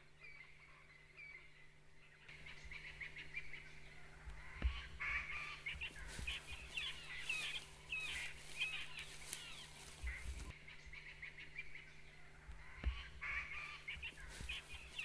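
Wild birds calling in the dark: bouts of many short, hooked chirps overlapping each other. They start about four seconds in, pause, and come again near the end, with a few soft low thumps in between.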